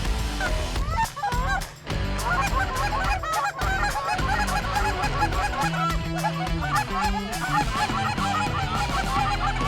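A flock of Canada geese honking, many overlapping calls at once, over background music with a steady beat.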